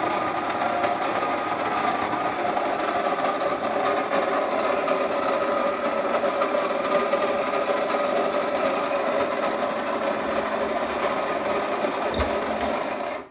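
De'Longhi KG79 electric burr grinder grinding coffee beans on a fine setting: a steady mechanical whirr that cuts off suddenly near the end when the grind for two cups is done.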